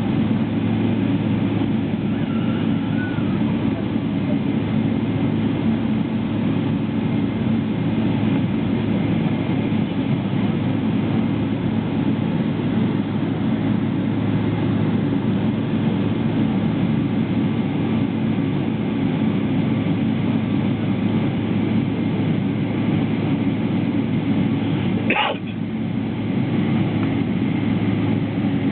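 Steady drone of cabin noise inside a SWISS Boeing 777, from its engines and airflow, heavy in the low range. It holds even throughout, with a brief sharp drop in level about 25 seconds in.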